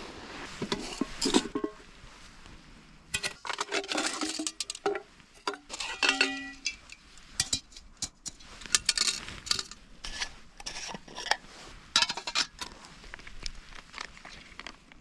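Metal camp cookware being handled on a Trangia stove: pans, lid and utensils clinking and knocking irregularly, with a short ringing tone about six seconds in.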